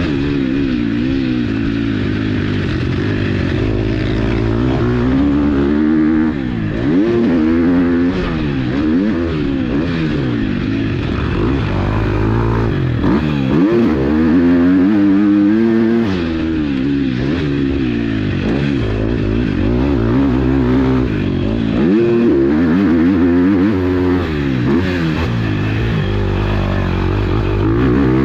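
A KTM 250 SX-F's four-stroke single-cylinder engine being ridden hard on a motocross track. Its pitch climbs and drops over and over as the throttle is opened and closed and the gears change.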